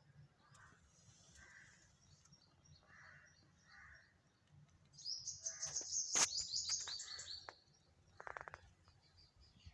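Birds calling outdoors. Soft calls come in the first few seconds, then a loud, rapid, high chattering starts about halfway through and lasts a couple of seconds, and a short harsh call follows near the end.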